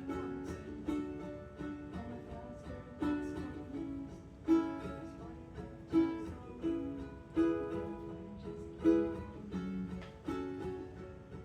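Ukulele music: plucked notes and chords in a steady instrumental passage, with stronger accented strokes about every second and a half.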